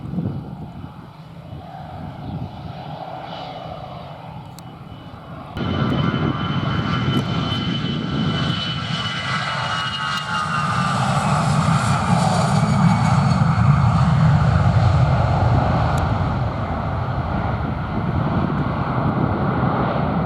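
Jet airliner engines at high power as it passes, with a whine that slides down in pitch and a low rumble that builds and then eases. The noise rises suddenly about five seconds in.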